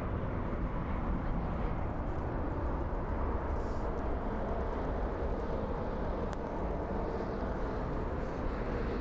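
Steady low rumble of jet aircraft noise at an airport, even throughout with no distinct events.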